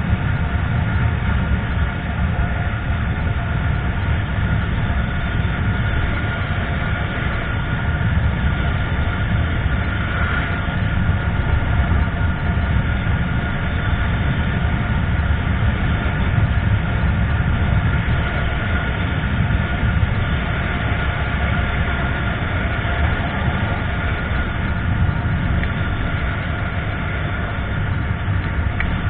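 Motorcycle riding at a steady speed: the steady drone of a Yamaha FZ25's single-cylinder engine under heavy wind rumble on the microphone.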